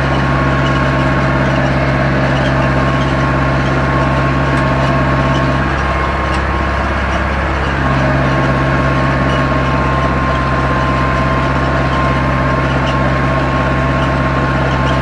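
Zetor 7245's four-cylinder diesel engine running steadily while pulling a plough, with a constant high whine over the engine note. About six seconds in, the engine note changes for roughly two seconds, then settles back.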